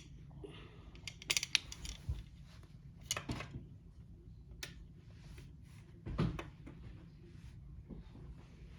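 Plastic parts of a Hexbug Land Rover construction kit being handled and fitted together: a scatter of small clicks and light knocks, with a duller knock about six seconds in.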